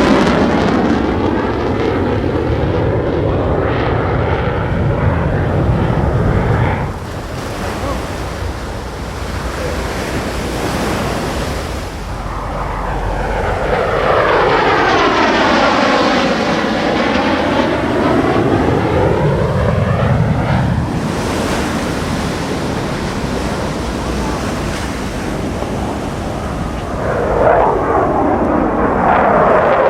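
F-16 fighter jets flying past with loud jet engine noise. The sound comes in several passes, each with a sweeping whoosh as it goes by; the biggest pass comes midway and another starts near the end.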